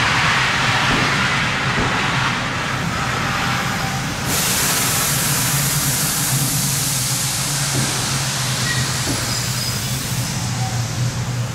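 Tobu Railway train running, heard from on board: a steady low hum and rumble. A sudden loud hiss starts over it about four seconds in and cuts off about six seconds later.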